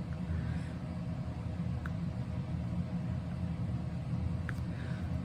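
Steady low rumble and hum of room background noise, with two faint ticks about two seconds and four and a half seconds in.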